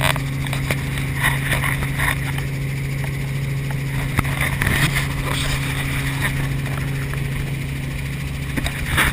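Helicopter engine and rotor running steadily, heard from inside the cabin as a constant low drone.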